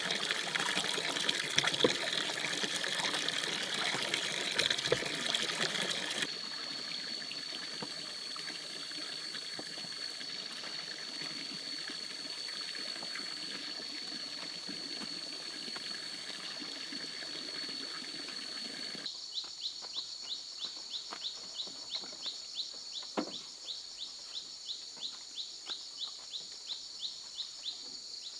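Running water with a few light knocks, cut abruptly to a steady high-pitched whine from outdoor creatures. About two-thirds of the way in, that gives way to a rhythmic high chirping, about two to three chirps a second, typical of insects.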